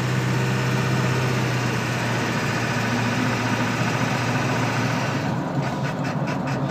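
Ford 7.3 L Power Stroke V8 turbo-diesel running steadily while the truck picks up speed, heard from inside the cab. Near the end a quick rhythmic pulsing comes in, about four or five beats a second.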